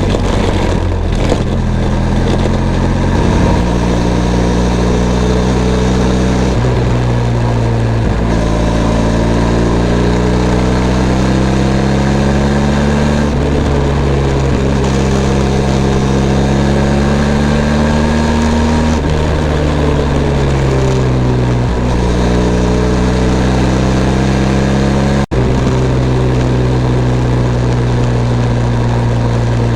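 Benelli TRK 502 X's 500 cc parallel-twin engine running while riding, its pitch climbing and dropping several times as the rider works the throttle and gears. The sound cuts out for an instant about 25 seconds in.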